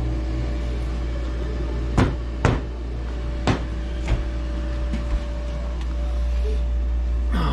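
Four or five sharp knocks, the first two loudest, about two to five seconds in, over a steady low hum.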